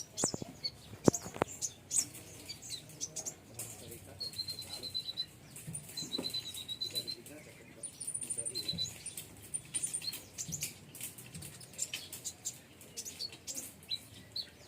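Konin birds in an aviary chirping over and over, with a few short even trills and clicks and wing flutters in between.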